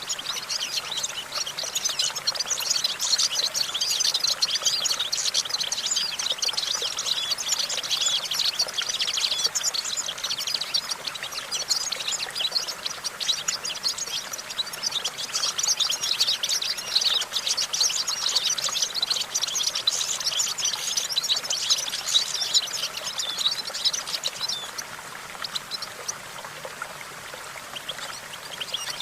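European goldfinch singing a fast, continuous twittering song that breaks off about 24 seconds in, leaving only a few scattered chirps.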